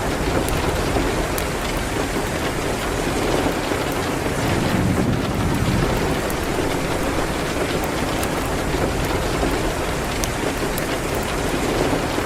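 Steady rain hitting a window, with the scattered sharp crackles of a fire burning in a fireplace.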